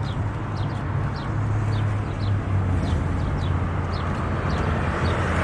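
Birds chirping, about ten short high chirps that each drop in pitch, over a steady low hum and background noise that grows a little louder near the end.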